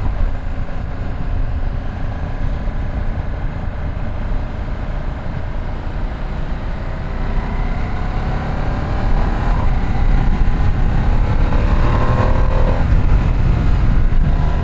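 Ducati Streetfighter V2 S L-twin engine running under way, over a steady low rumble of wind on the mic. From about halfway through, the engine note rises as the bike accelerates, then breaks off near the end as the revs drop.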